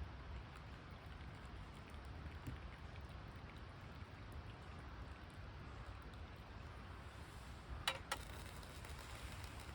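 Open wood campfire burning with a steady faint hiss and small scattered crackles, and two sharp pops or clicks in quick succession about eight seconds in.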